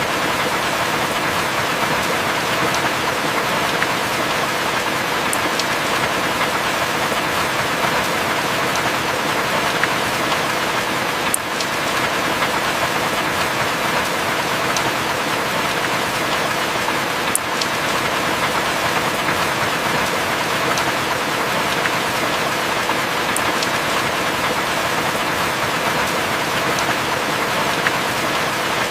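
Heavy rain falling steadily, an even hiss with a few sharp ticks scattered through it.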